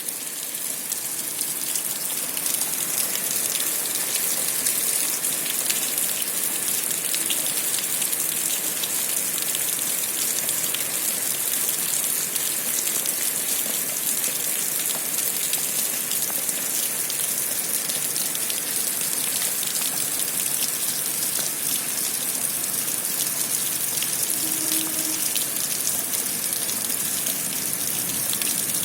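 Steady rain falling: an even, dense hiss dotted with many small drop ticks.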